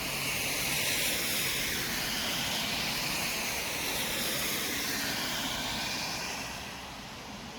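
A vehicle passing in city traffic: its tyre and road noise swells about a second in, holds as a steady hiss, and fades near the end.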